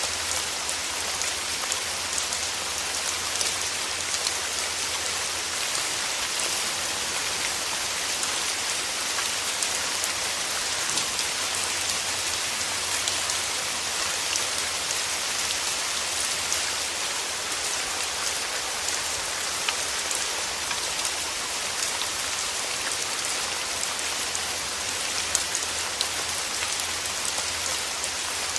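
Steady rain with many individual drops ticking, a few of them louder.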